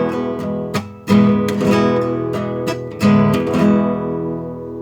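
Acoustic guitar strummed in a run of chords, then the last chord is left to ring and fade near the end.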